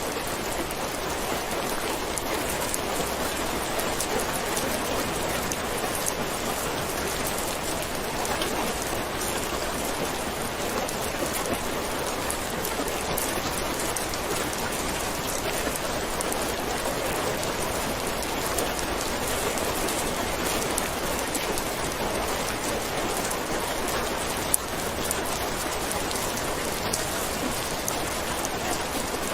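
Steady rain falling, an even hiss of many drops on a surface, with one short sharp click about three-quarters of the way through.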